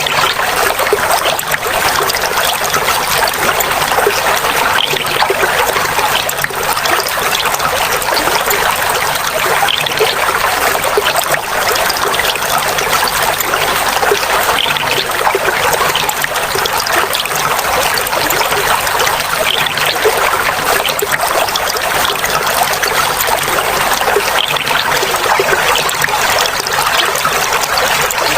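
Clear water flowing and trickling steadily, a loud babbling splash like a small stream or cascade over rocks, with no break.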